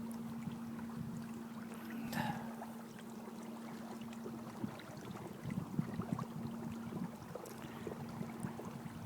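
A 55 lb-thrust electric trolling motor running with a steady low hum while the canoe moves, over water gurgling and lapping against the hull.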